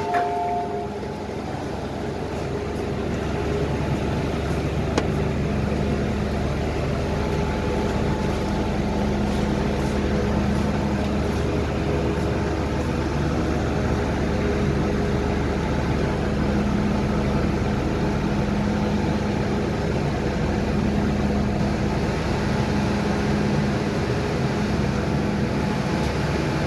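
Brief end of a two-note chime at the start. Then an MTR M-Train electric metro train is running, a steady rumble with a low hum that builds a little over the first few seconds and then holds even.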